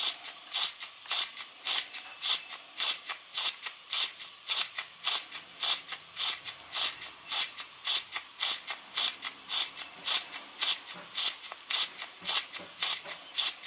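Model steam engine chuffing steadily under load while driving a Baker fan, its exhaust giving a sharp, even chuff about three times a second. This is the working chuff of an engine doing work rather than racing unloaded.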